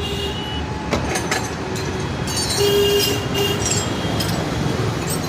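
Steady low mechanical rumble with scattered clinks and knocks, and a few brief steady tones about halfway through.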